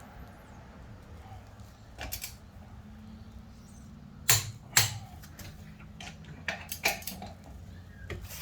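Click-type torque wrench clicking as lug nuts come up to torque, with other scattered metal clicks. The two loudest clicks come about half a second apart near the middle.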